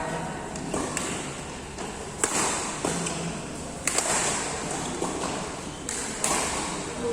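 Badminton rally: rackets striking a shuttlecock, about five sharp hits one to two seconds apart.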